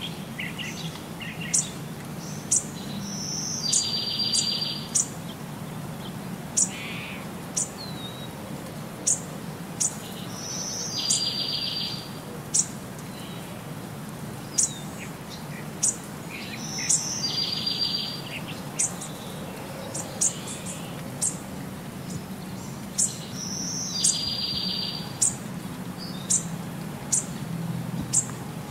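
Birds chirping: short high chirps about once a second, with a longer buzzy trill recurring every six to seven seconds in an even, repeating pattern. A steady low hum lies underneath.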